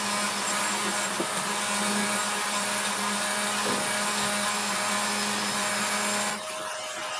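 Dremel rotary tool running steadily while grinding down a bronze sleeve bushing that is too tight on the gearbox shaft; the tool stops about six seconds in.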